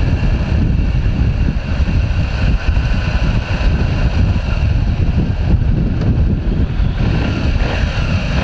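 Wind rushing over the microphone of a motorcycle rider on the move, a steady low rumble with engine and road noise mixed in.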